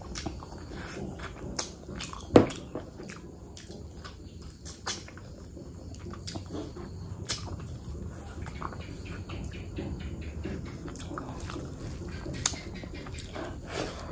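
Close-miked eating of mutton curry and rice by hand: wet chewing and smacking mouth noises with scattered small clicks, and one sharp click about two seconds in.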